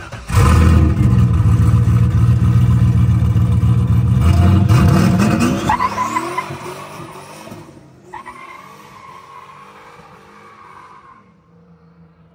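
Turbocharged 1998 Chevrolet Camaro SS V8 under hard throttle: loud and steady at first, then the revs climb about five seconds in before the engine backs off and the sound falls away much quieter.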